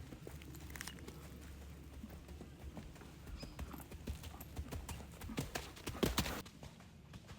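Warmblood horse's hoofbeats, a run of irregular strikes, with a denser, louder stretch about six seconds in.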